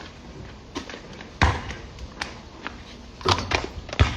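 A handful of separate thumps and knocks at uneven intervals, the strongest about a second and a half in.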